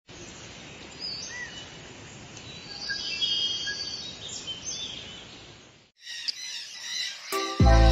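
Lovebirds chirping in short, scattered calls over a steady background hiss. About six seconds in the chirping cuts off and music starts, with heavy bass beats near the end.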